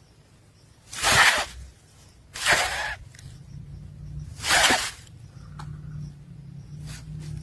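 Nestling birds giving three short, rasping begging calls, each about half a second long and a second or two apart.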